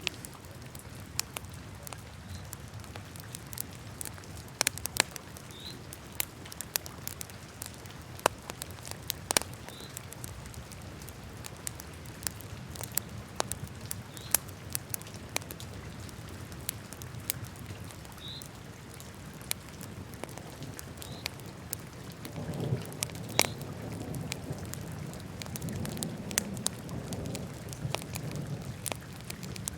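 Wood fire burning in a fireplace: irregular sharp crackles and pops over a low rumble of flames. The flame rumble grows louder about two-thirds of the way through.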